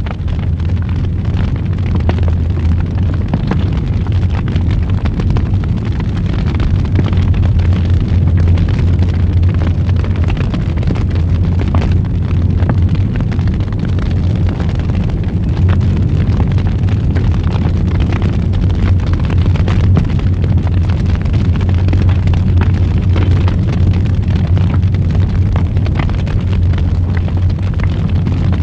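Wood fire burning in a fireplace, crackling and popping continuously over a steady low rumble.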